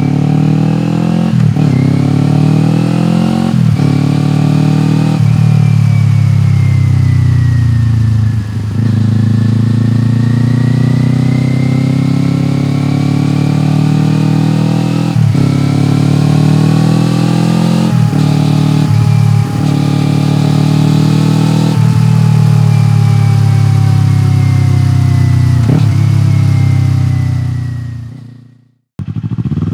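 Kawasaki Eliminator 400's parallel-twin engine through a BEAMS POWERHEADER exhaust, under way. The revs climb in each gear with quick upshifts, ease off for a few seconds, then climb through the gears again. Near the end the sound fades away.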